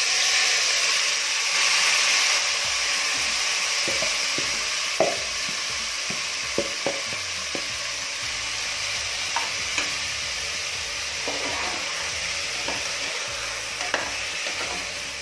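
Marinated vegetables dropped into hot oil and ghee in an aluminium pressure cooker: a loud sizzle that starts all at once and slowly eases off. From about four seconds in they are stirred, and a metal ladle clicks and scrapes against the pot.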